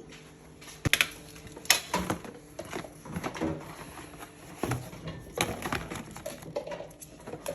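Irregular clicks and knocks of objects being handled, a few sharp ones close together, over a faint steady hum.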